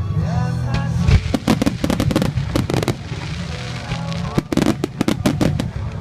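Fireworks shells bursting in rapid volleys of sharp bangs, a dense barrage starting about a second in, a brief lull, then another cluster near the end, with music playing underneath.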